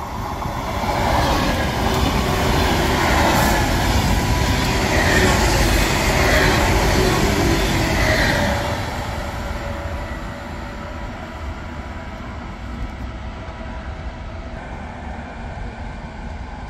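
Italo high-speed electric train passing through the station at speed without stopping. The noise of wheels and air builds within about a second, stays loud for several seconds, then dies away about nine seconds in to a low steady rumble.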